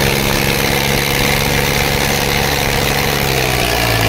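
Tractor diesel engine running steadily at an even pitch, dropping slightly in pitch near the end.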